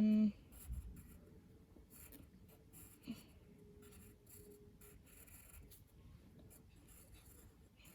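A drawing tool scratching on paper in short, irregular strokes.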